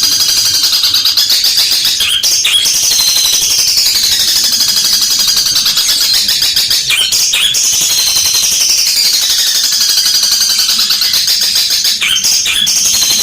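Long-tailed shrike singing a loud, continuous, high-pitched chattering song of very rapid notes whose pitch swings up and down in waves, with short breaks about two, seven and twelve seconds in. The song is the fighting-sparrow ('gereja tarung') mimicry this bird is kept for.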